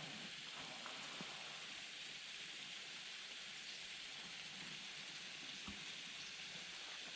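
A faint, steady hiss with a couple of soft ticks, the kind of sound light rain or water makes on open water.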